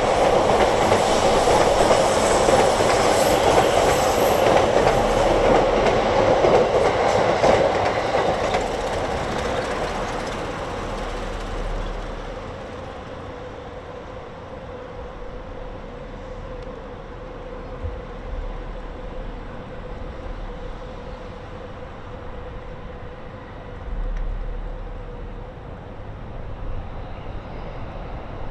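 A train passing, loud at first and dying away over about twelve seconds, leaving a faint steady hum.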